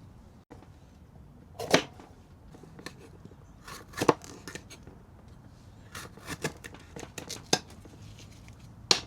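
A few sharp knocks and clicks at irregular intervals, about a second or two apart and bunched together in the second half, over a quiet background.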